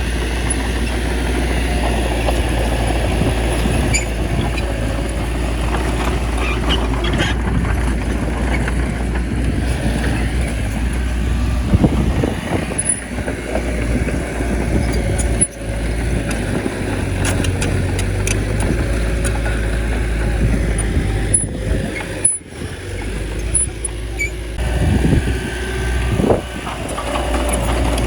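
A small bulldozer's diesel engine runs steadily, with scattered short clicks and clanks from the machine as it works.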